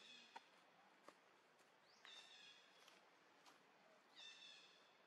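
A bird calling faintly three times, about two seconds apart, each a short high call that rises quickly at its start.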